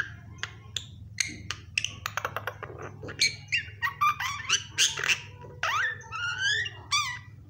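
Pet myna chattering: a quick run of sharp clicks, chirps and squawks, with a string of short whistled calls in the second half.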